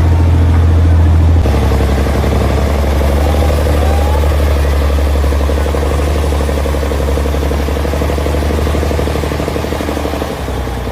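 Large engine running steadily at low revs, its note dropping slightly about a second and a half in.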